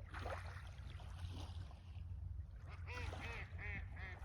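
A bird calling in a quick run of about five short calls, each rising and falling in pitch, starting about three seconds in. The calls sit over a low steady rumble.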